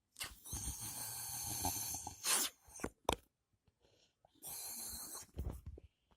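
Air blown into a lump of slime to blow a bubble: long breathy blows with a strange, snore-like rasp, and a couple of short sharp clicks between them.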